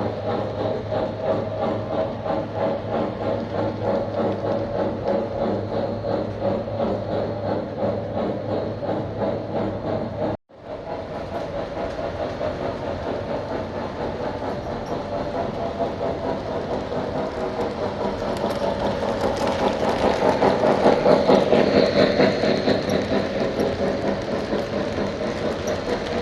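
Lionel O gauge toy train running on the track: a steady motor hum with the wheels clattering on the rails. It breaks off completely for an instant about ten seconds in, then grows louder from about eighteen seconds to a peak a few seconds later as the train comes nearest.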